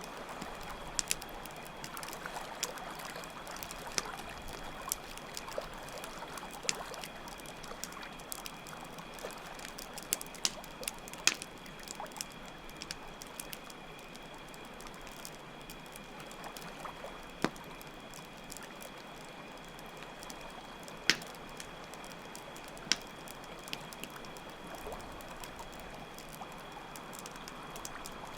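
Campfire crackling with scattered sharp pops, over steady trickling water and crickets chirping in a continuous high trill.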